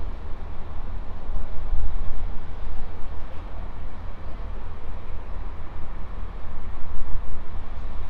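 Steady low rumble of a train approaching along the main line through the station.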